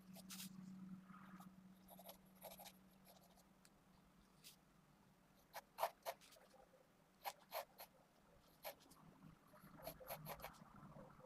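Faint scratching of a Pentel GraphGear 500 mechanical pencil (0.5 mm 2B lead) sketching on paper: short, separate strokes with pauses between them, and a few sharper ticks.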